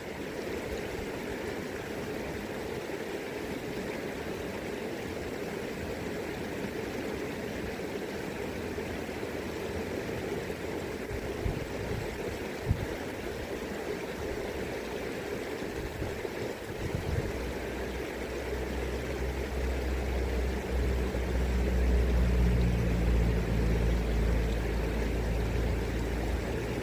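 River current rushing steadily. About two-thirds of the way in, a low steady hum joins it and grows louder.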